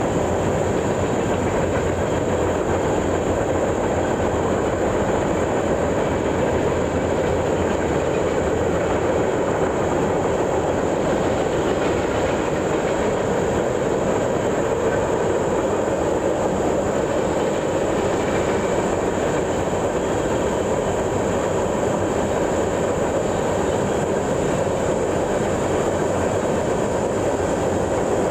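A train's cars rolling steadily past on the rails, with a continuous rumble and clatter of wheels on track.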